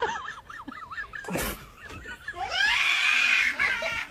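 Pet animal cries: a quick run of short chirping calls, then a single long, high-pitched yowl starting about two and a half seconds in.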